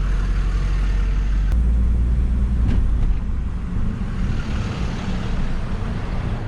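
Toyota Previa van driving, its engine and road noise a steady low rumble heard from inside the cabin, swelling slightly about a second and a half in.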